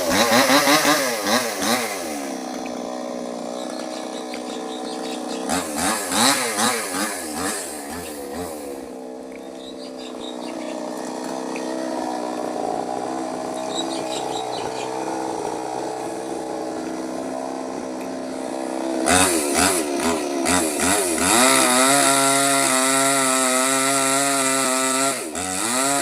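Small petrol mini chainsaw running. It is revved up and down in the first couple of seconds and again around six seconds in, runs steadily at lower speed through the middle, then revs high again from about nineteen seconds on.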